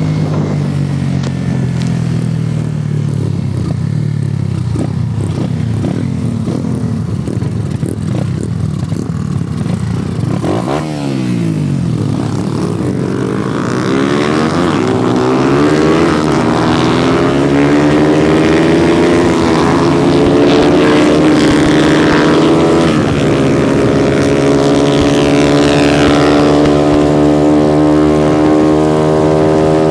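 Honda CG motorcycle's single-cylinder four-stroke engine running under way. About ten seconds in the engine note drops briefly, as at a gear change. It then climbs steadily in pitch over several seconds and holds at higher revs, louder.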